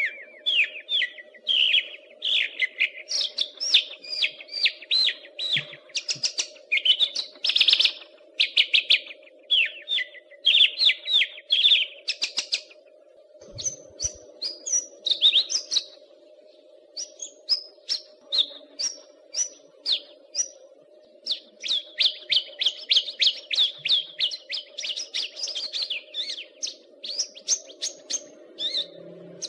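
Caged Javan bush lark (branjangan) singing in long, fast runs of short high chirps and trills, with a short pause about halfway through. A faint steady low hum sits underneath.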